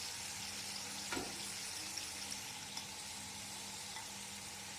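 Potato fries sizzling steadily in hot oil during their second deep fry, coated in cornflour. A single knock about a second in, with a few light ticks after.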